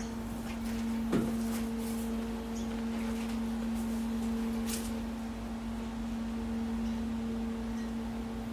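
A steady electrical hum, a low tone with a fainter one an octave above it, with a few brief clicks and short hissing bursts over it.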